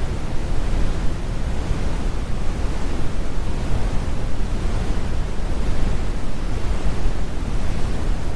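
Synthetic brown noise: a steady, deep rumble of even hiss, heaviest in the low end with the highs rolled off, unchanging throughout.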